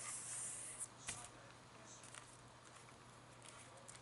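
Faint handling of paper and card: a brief rustle in the first second as the glued paper flap is brought down onto the card, then a few soft taps and light rubbing.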